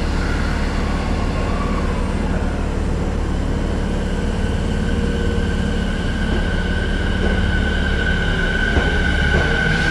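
Electric train running: a low rumble under a steady high whine that grows louder over the second half.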